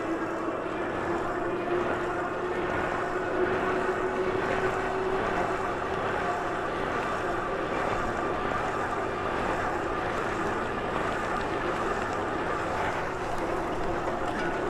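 A bike being ridden: a steady rush of running and wind noise with a droning whine that creeps slightly up in pitch over the first few seconds and then holds, possibly the odd noise the title refers to.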